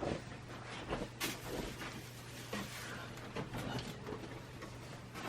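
Soft rustling and small clicks of a cardboard toy box and its plastic packaging being handled as the figure is worked out, with one sharper click about a second in.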